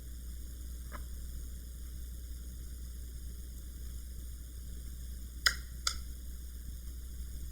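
Small screws and a screwdriver handled while fitting a drive's mounting screws: a faint click about a second in, then two sharp clicks about half a second apart near the end. A steady low hum runs underneath.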